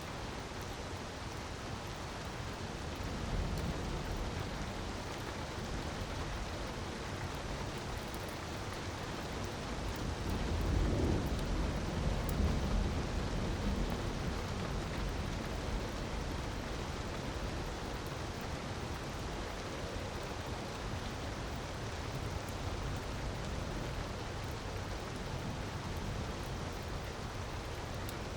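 Steady rushing water noise, rain or waterfall ambience, with a low rumble that swells about ten seconds in and fades a few seconds later. A few faint crackles, like a fireplace fire, sit over it.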